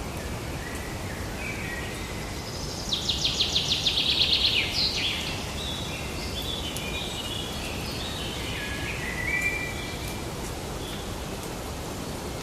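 A songbird sings a fast trill of about eight sharp notes a second, the loudest part, then a run of shorter stepped chirps that fades out near the end. Beneath it runs a steady forest background hiss.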